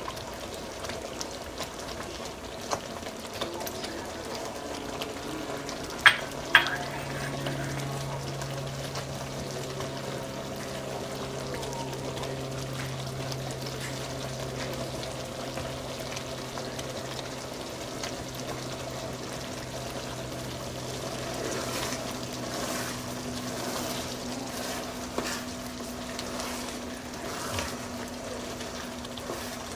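Pot of arroz caldo cooking on the stove with stirring, a steady sizzling, bubbling noise. Two sharp clanks come about six seconds in, and a faint steady hum runs underneath.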